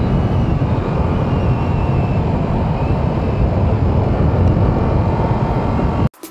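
Motorcycle riding at expressway speed, most likely the 2022 Yamaha R7's parallel-twin: steady, loud wind rush over the microphone with engine and road noise underneath. The sound cuts off abruptly near the end.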